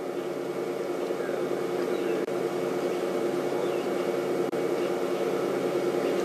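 Safari vehicle engine idling with a steady low hum.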